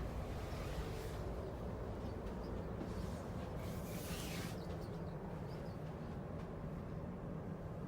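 Steady low hum and rumble of a cruise ship's cabin, with a brief rustling hiss about four seconds in.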